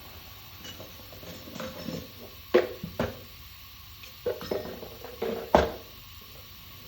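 Metal parts clinking and knocking against each other as they are handled, most likely pieces of a Nippondenso car air-conditioning compressor being worked on. There are two sharp knocks a little over halfway in, then a run of clinks ending in another sharp knock near the end.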